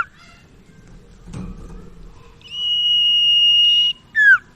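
Common iora (sirtu/cipoh) song: a long, steady, high whistle held for about a second and a half, then a short note that drops in pitch. The same downward note is also heard right at the start.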